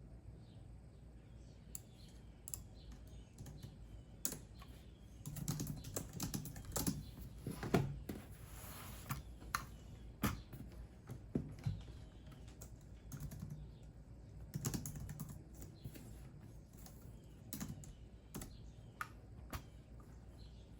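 Computer keyboard typing: irregular keystrokes, coming in quicker runs with pauses between them, over a faint steady low hum.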